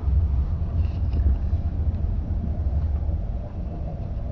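Steady low rumble of a moving double-deck passenger train, heard from inside the coach, with some wind buffeting on the microphone.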